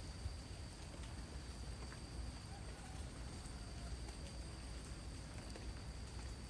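Steady rain falling in a forest: an even soft hiss with scattered faint drips, a low rumble underneath and a thin steady high-pitched tone.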